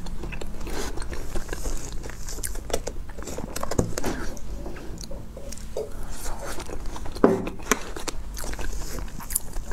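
Close-miked eating sounds of soft mousse cake: wet mouth clicks and smacks while chewing, many small clicks scattered throughout, one louder about seven seconds in.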